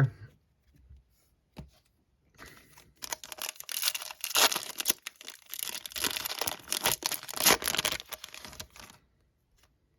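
A foil trading-card pack wrapper being torn open and crinkled: a crackly tearing and rustling that starts a couple of seconds in and lasts about six seconds.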